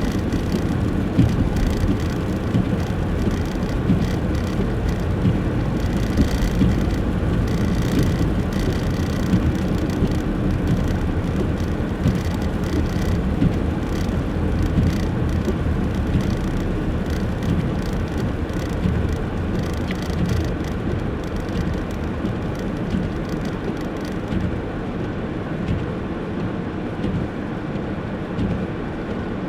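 Car driving along a snowy road: a steady, even rumble of engine and tyre noise.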